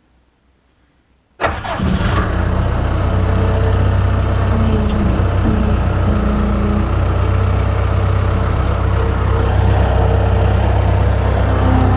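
Engine near silence, then cuts in abruptly about a second and a half in and runs steadily and loudly with a deep, even hum.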